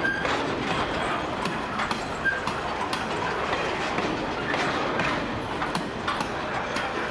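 Loaded freight hopper wagons of a grain train rolling past, their wheels clicking steadily over rail joints above a continuous rumble. Brief high wheel squeals come just after the start and again about two seconds in.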